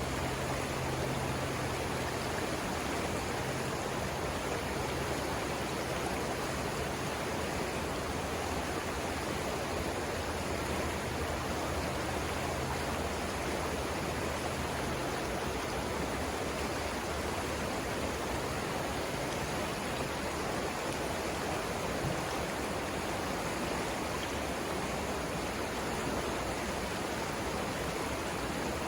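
River water rushing steadily over rapids, an even hiss with no breaks. A faint low hum sits beneath it and fades out about halfway through.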